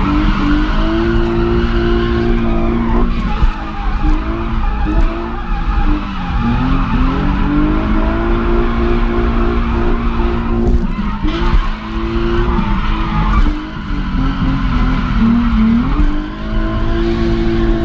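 Drift car's engine revving hard and holding high revs, the revs dropping and climbing again every two to four seconds, while the tyres slide and squeal through the drift.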